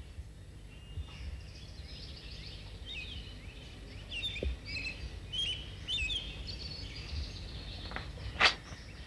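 Several birds chirping and calling over and over above a low, steady background rumble. A brief sharp sound near the end is the loudest moment.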